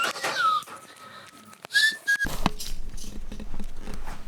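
A person whistling a few short notes that glide up and down. About halfway through, the whistling breaks off and a steady low rumble takes over.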